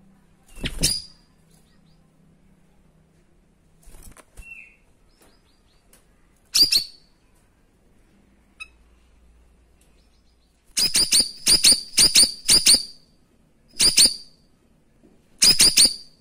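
Cucak rawis songbird giving short, sharp, high-pitched calls: single notes spaced a few seconds apart, then a rapid run of about six notes around eleven seconds in, and a quick group of three near the end.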